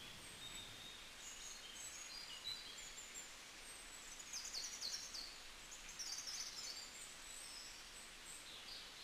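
Faint chirping of small birds, many short high calls and quick falling notes over a steady low hiss, busiest around the middle.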